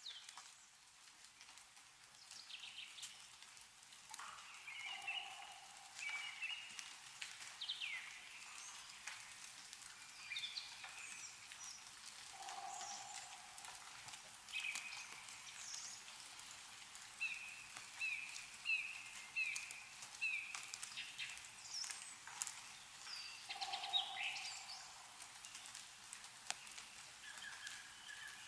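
Songbirds chirping and calling, with a faint patter of drips from snow melting off trees. A lower, short call comes three times, and about two thirds of the way through one bird gives a quick run of five or six similar chirps.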